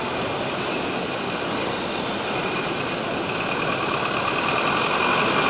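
Steady rushing of floodwater from an overflowing river. About halfway through, a faint steady high-pitched tone joins it.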